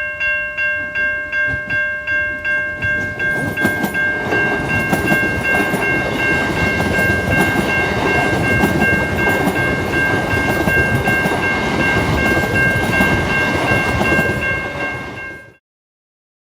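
Level crossing bells ringing steadily at about two and a half dings a second as a suburban passenger train passes, its wheels clicking over the rail joints from a few seconds in. The sound cuts off suddenly near the end.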